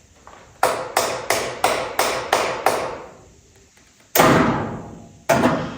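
A quick run of seven sharp taps, about three a second, then two louder knocks about a second apart, each with a short ring, like something hard being rapped with a tool.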